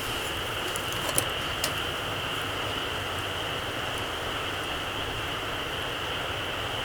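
Small campfire burning down to embers: a few sharp crackles and pops in the first two seconds over a steady hiss.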